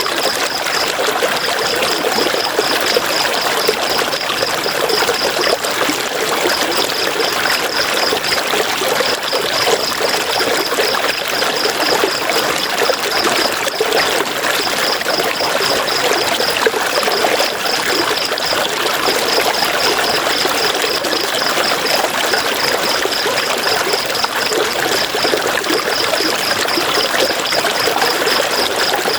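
River water flowing steadily over stones. A high, fast-pulsing trill comes and goes over it in runs of one to three seconds.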